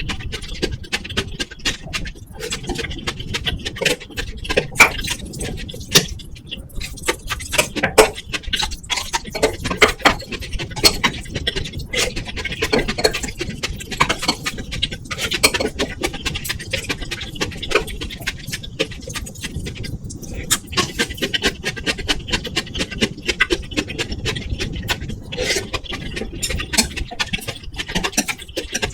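Close-miked eating sounds: chewing and small mouth and utensil clicks, dense and continuous, mixed with crackling noise from a faulty microphone setup that a new mic and cable have not cured.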